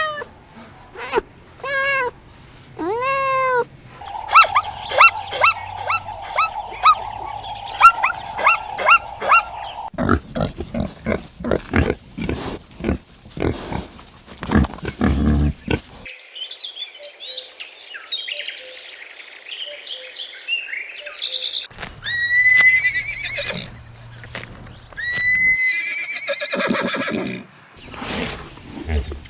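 A string of different animal calls, one recording after another. It opens with a few arched cries like those of a cat meowing, then changes several times to other animals, including rapid repeated calls and a run of pulsed noises.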